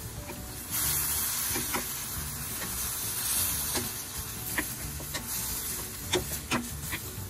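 Beef and vegetables sizzling in a hot stainless steel pan, the sizzle jumping louder about a second in and easing off after about four seconds. A wooden spatula stirs and scrapes through the food, knocking the pan with scattered sharp clicks.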